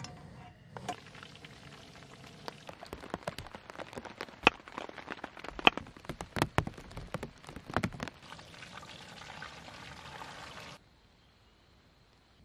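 Rain pattering, with many loud separate drops knocking on a surface. It stops abruptly about two seconds before the end.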